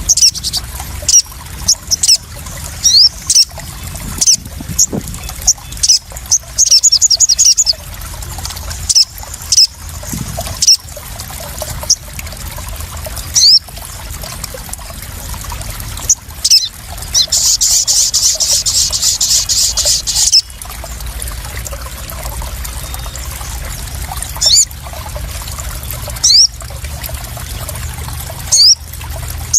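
Sogon (ruby-cheeked sunbird) calling: sharp, high, loud chirps at irregular intervals, a quick trill around seven seconds in and a longer buzzy trill a little past halfway. Behind the calls, water splashes and trickles steadily.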